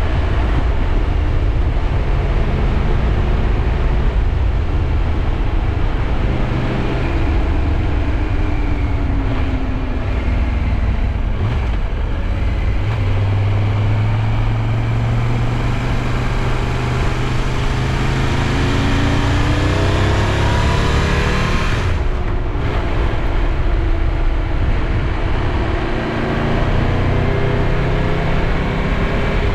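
Triumph Tiger 1200's three-cylinder engine pulling along a winding road, its pitch falling and rising several times as the bike slows and accelerates, over steady wind rush on the microphone.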